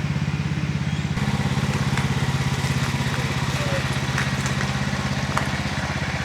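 A vehicle engine running steadily, a rapid even pulse over a low hum, with a few faint clicks and rattles on top.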